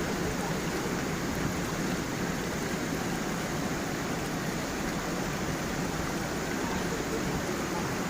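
Steady rush of a forest stream flowing over stones and a small waterfall.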